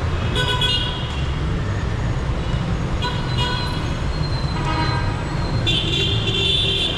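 Busy city street traffic: a steady rumble of engines with car horns honking several times, short toots at first and a longer horn blast near the end.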